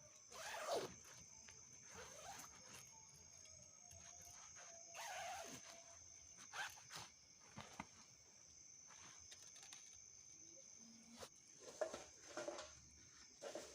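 Insects in the forest keeping up a steady high-pitched trill, with scattered short rustles and knocks of handling nearby.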